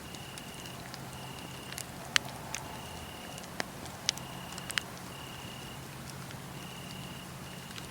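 Wood fire crackling, with a few sharp pops standing out about two, four and five seconds in. Over it a cricket trills in repeated, evenly spaced pieces of under a second each.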